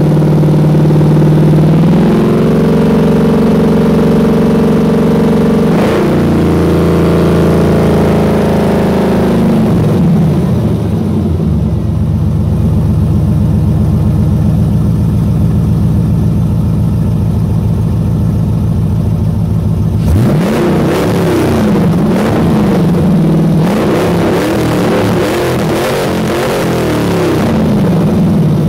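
LS6 5.7-litre V8 in a 1999 Camaro Z28 running: it is revved up and held at raised revs for several seconds, then drops back to a steady idle. Near the end it is blipped up and down repeatedly with quick rises and falls in pitch.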